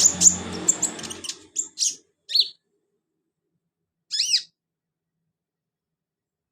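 Sunbird (the bird sold in Indonesia as kolibri or conin) singing: a fast run of sharp, high chirps and short trills over the first two and a half seconds, then a single arching call a little after four seconds.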